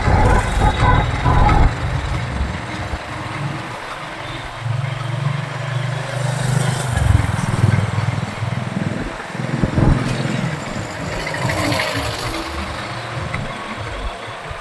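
Road traffic heard from a motorcycle in city streets: vehicle engines running, with a steady low engine note from about four to seven seconds in.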